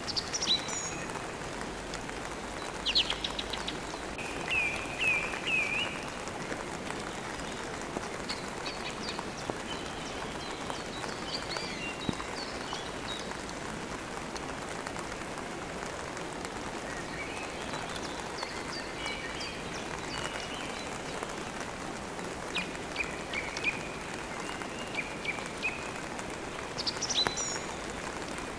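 Steady rain, with songbirds chirping over it in short bursts every few seconds.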